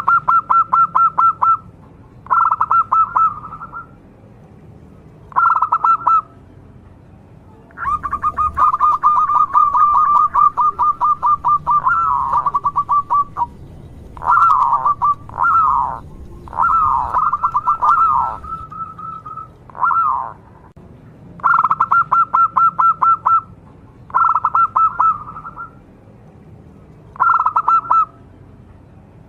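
Zebra dove (perkutut) singing: repeated phrases of rapid trilled cooing, each lasting a second or so, with a longer unbroken run of trills from about eight to thirteen seconds in and a few short down-slurred notes after it.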